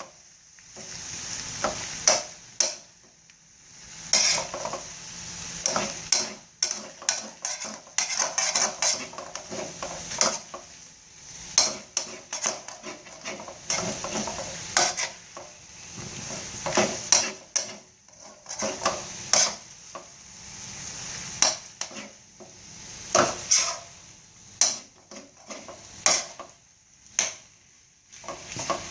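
Metal spatula scraping and knocking against a frying pan as seafood fried rice is stir-fried, in irregular strokes with short pauses, and a low sizzle between them.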